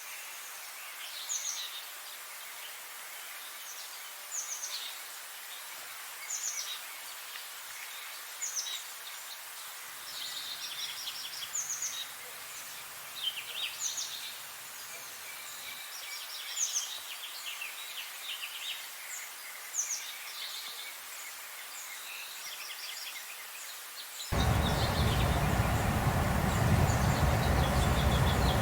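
Songbirds singing short chirping phrases every second or two over a steady background hiss. About 24 seconds in, the sound cuts abruptly to a much louder, steady rumbling noise.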